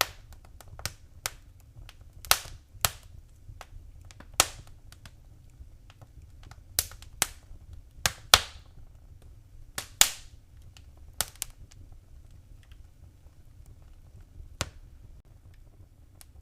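Wood fire crackling: sharp, irregular pops and snaps, most of them in the first eleven seconds and only one later, over a faint low steady rumble.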